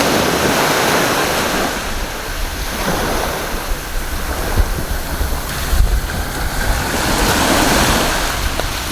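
Ocean waves breaking and washing up a sandy beach, the surf swelling and easing every few seconds, with wind buffeting the microphone.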